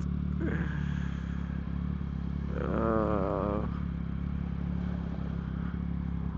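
Motorcycle engine running steadily at low revs. A short wavering, pitched sound rises over it for about a second, about three seconds in.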